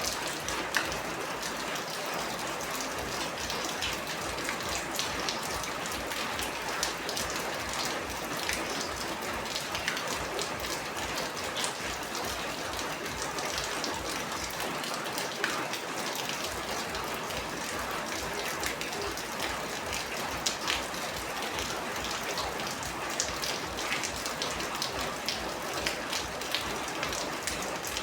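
Steady rain falling, with many individual drops striking close by as sharp ticks over an even hiss.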